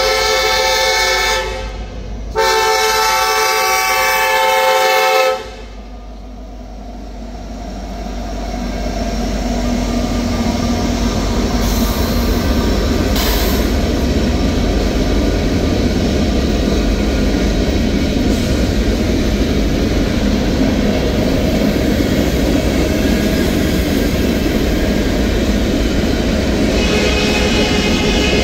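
Lead locomotive's horn of a Norfolk Southern freight train, NS 1074, an SD70ACE, sounding for a grade crossing: a loud chord with a brief break about two seconds in, cutting off about five seconds in. Then the diesel locomotives and freight cars pass with a steady rumble of engines and wheels on rail, building over the next few seconds and holding.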